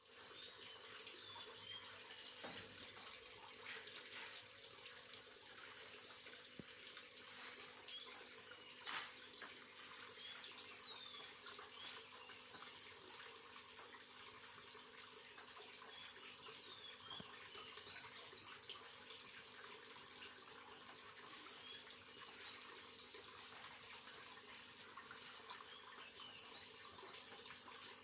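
Water running steadily from a borewell (tube well), a faint even hiss. Birds chirp now and then over it, with a low steady hum underneath.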